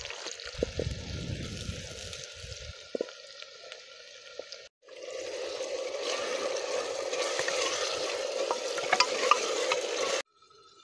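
Onions and chopped tomatoes sizzling in hot oil in an aluminium pressure cooker, with a wooden spatula stirring and scraping against the pot. The sizzle breaks off about five seconds in, comes back louder, and cuts off suddenly near the end.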